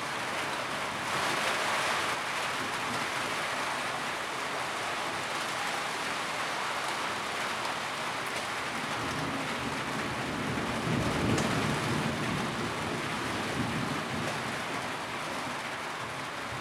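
Steady heavy rain drumming on a tin roof, an even hiss of dense drops, with a low rumble swelling up about two-thirds of the way through.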